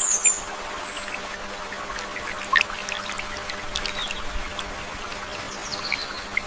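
Water trickling, with scattered short high chirps.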